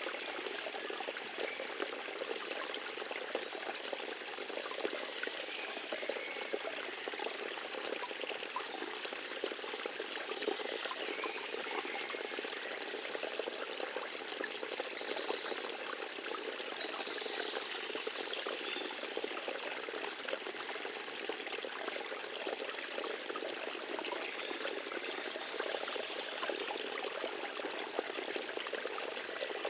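Forest stream trickling and splashing over its bed in a steady, unbroken rush.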